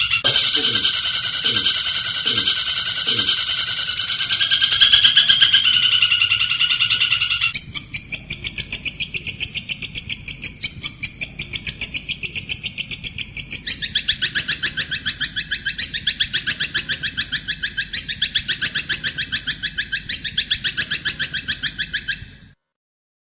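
Recorded songbird calls played as a tutor track. First a dense run of chirping, then about seven seconds in a rapid, evenly pulsed trill that goes on and steps higher about halfway through. The sound cuts out briefly near the end.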